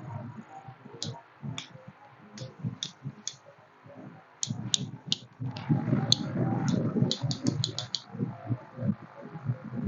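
Bench test of a dead starter motor with jumper cables: about twenty sharp clicks and snaps as the cable clamps are touched to the starter and battery terminals, coming quicker near the end, with clamp and cable handling noise. The starter never spins: it is dead.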